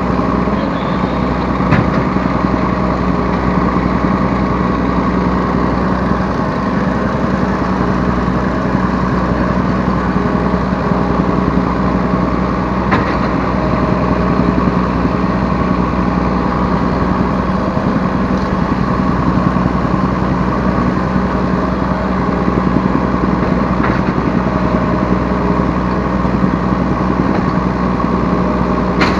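Diesel engine of a Yanmar B3 Sigma 3-tonne mini excavator running steadily, heard from the operator's seat, with a few faint clicks during the work.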